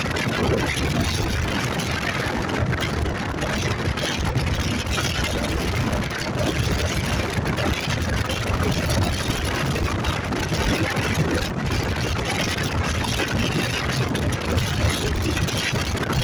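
Motorcycle running steadily while riding, its engine mixed with dense wind and road noise.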